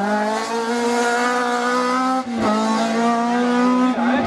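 Rally kit car's engine running flat out at high revs, pitch held high and slowly climbing, with a quick gearshift about two seconds in before it pulls again.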